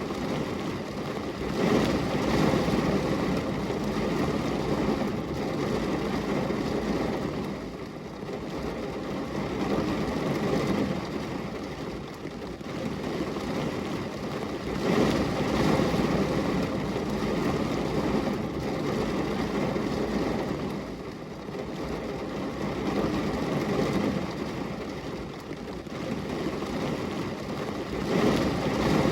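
Rain on a glass window, a steady rushing hiss that swells and eases in slow waves every several seconds.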